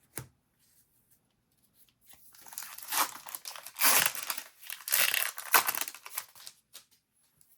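A trading-card booster pack's wrapper being torn open and crinkled. The crackling tear starts about two seconds in and goes on for about five seconds, in several louder rips.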